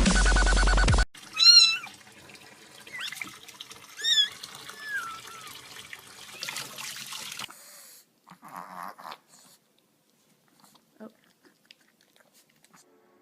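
A cat meowing about three times, the first and loudest about a second and a half in, over a faint steady hiss that stops about halfway through. It opens with the last second of electronic dance music cutting off abruptly.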